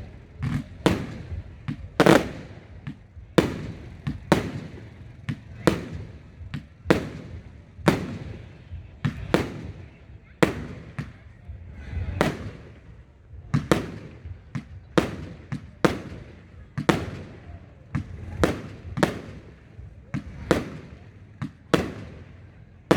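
Display fireworks going off in a continuous barrage: sharp bangs about one to two a second, each trailing off in a short echo.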